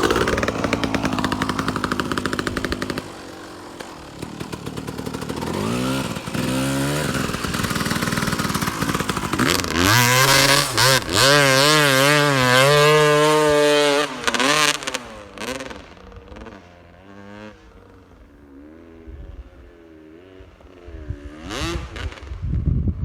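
A 250 cc two-stroke motocross motorcycle engine revving hard, its pitch repeatedly rising and falling with the throttle. It is loud at first, drops away briefly, comes back strongly for about ten seconds, then fades and swells again near the end.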